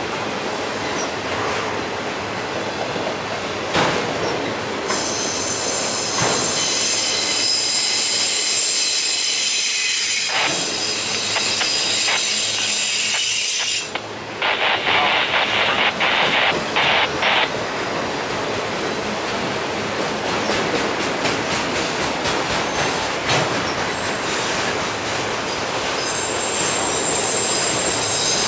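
Autorack freight cars of a long train rolling past: a steady rush and rattle of steel wheels on rail. About halfway through there are a few seconds of high, stuttering wheel squeal.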